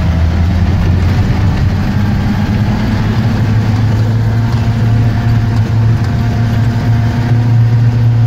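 UAZ off-roader's engine, heard from inside the cab, running steadily as the vehicle drives over snow. Its revs rise a little in the first couple of seconds and then hold.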